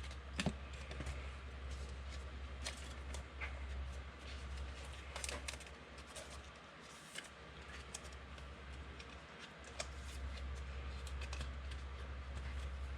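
Trading cards and pack wrappers handled at a table: scattered light clicks and rustles, over a steady low electrical hum.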